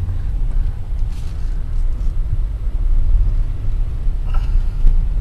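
Car driving, its engine and road noise making a steady low rumble.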